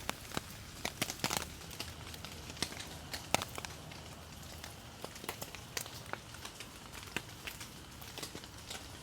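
Wood campfire crackling, with irregular sharp pops several times a second over a faint steady hiss.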